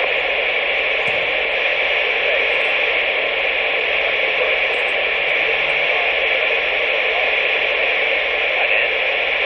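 Steady hiss of static from a CB radio receiver, with no voice on the channel.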